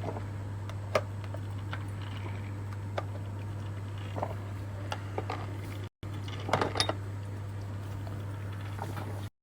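Electric fast tea-and-coffee maker running while it brews, with a steady low hum. Light clicks and clinks of cups and dishes are scattered through it, with a short clatter about six and a half seconds in.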